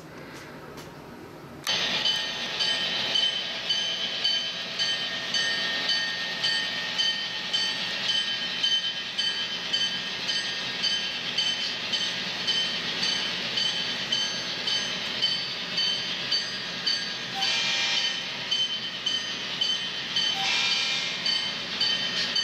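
Train running with a regular clickety-clack, about one and a half clicks a second, over a steady high whine. It starts suddenly about two seconds in.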